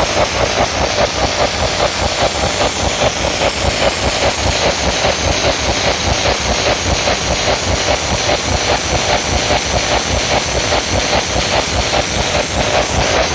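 Large outdoor PA sound systems blasting at very high volume, heavily distorted into a dense roar, with a fast steady bass pulse of about two to three beats a second.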